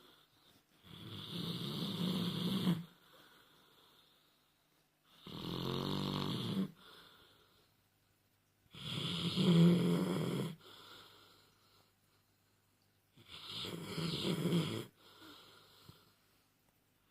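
A sleeping dog snoring: four long snores about four seconds apart, the second with a rattling flutter.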